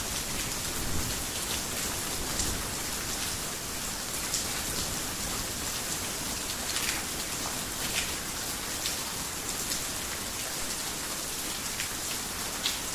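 Heavy rain falling on a roof: a steady hiss with frequent sharp drops tapping through it.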